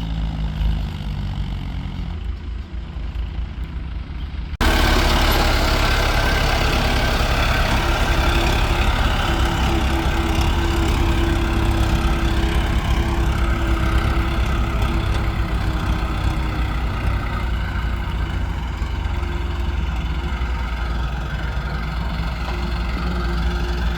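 Heavy diesel machinery engines running steadily. About four and a half seconds in, the sound jumps abruptly louder and brighter, then holds as a steady engine drone.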